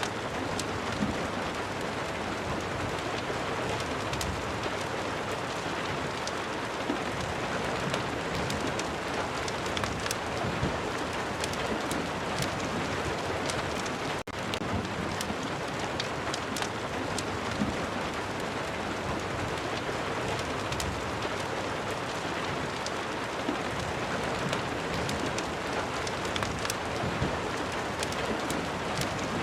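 Steady rain ambience: a constant hiss of rain with many scattered sharp ticks. There is a very brief drop-out about fourteen seconds in.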